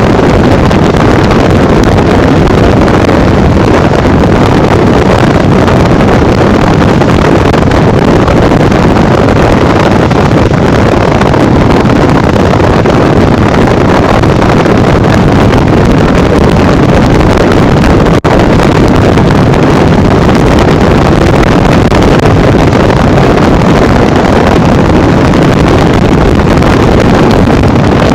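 Loud, steady wind rushing over the microphone on a Honda Bros 150 motorcycle ridden at speed, with a brief drop-out about two-thirds of the way through.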